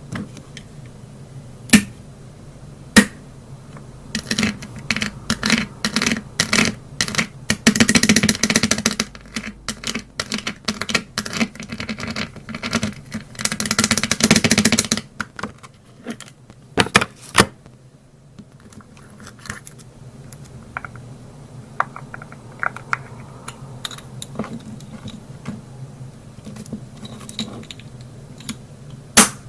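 Cosmetics being handled up close: sharp clicks of small cases and lids, with long runs of rapid clicking and rattling from about 4 to 15 seconds in, then fainter scattered ticks.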